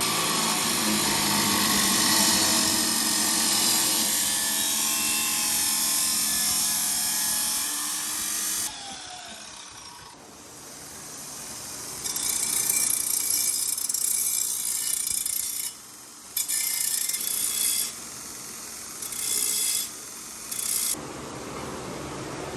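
A power cutting tool cutting stainless steel exhaust tubing. It cuts steadily for about eight seconds, then winds down with a falling pitch. After a short pause it runs again in several bursts with brief stops in between.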